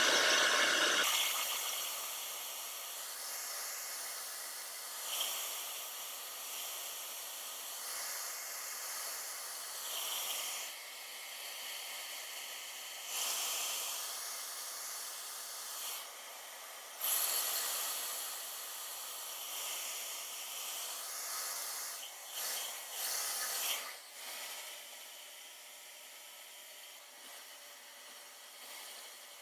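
HSI Professional Dryonizer 2200 ceramic blow dryer blowing, a rush of air that swells and fades every few seconds as it is moved around the hair. About a second in the sound drops and loses its low rumble.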